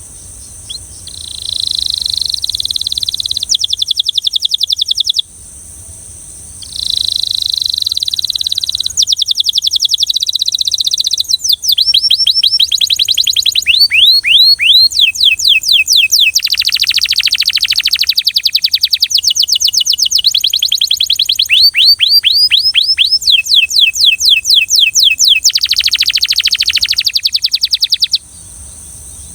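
Belgian canary singing: two trilled phrases, then a long run of rapid trills and fast repeated sweeping notes that stops shortly before the end.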